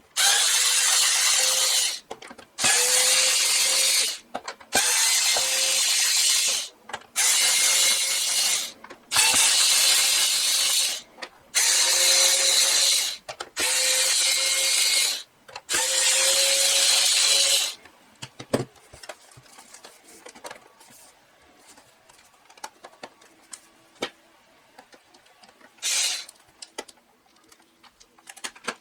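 Cordless electric screwdriver running in short bursts, about eight runs of two seconds each, its motor tone rising slightly as it spins up, backing the screws out of a flashlight housing. Then light clicks of parts being handled, and one more short run near the end.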